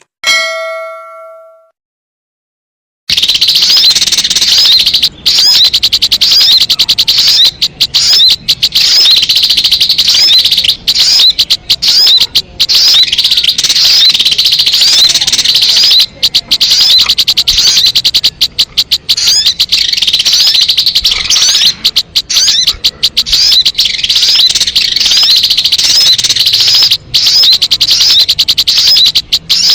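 Bird-lure recording of sogon calls: a loud, unbroken stream of rapid high chirps and trills that starts about three seconds in, after a short chime at the very start.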